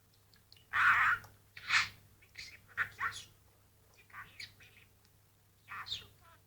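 Pet budgerigar chattering in a string of short, high-pitched, squawky bursts, the mimicked speech of a talking budgie; the loudest burst comes about a second in.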